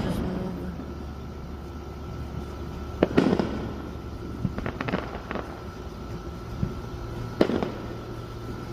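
Aerial fireworks bursting: a sharp bang about three seconds in, a quick run of smaller crackling pops around five seconds, and another bang near the end.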